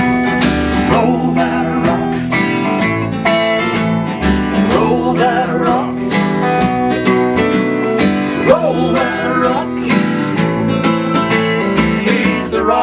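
Acoustic guitar strumming a country-rock song in a break between sung lines, with a wavering melody line coming in over it a few times.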